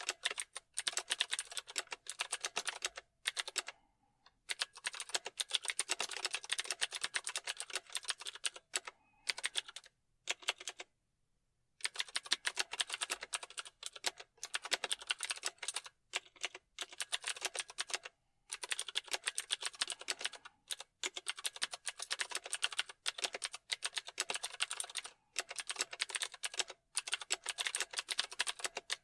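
Fast typing on a computer keyboard: runs of rapid key clicks broken by short pauses, with one longer pause of about a second roughly ten seconds in.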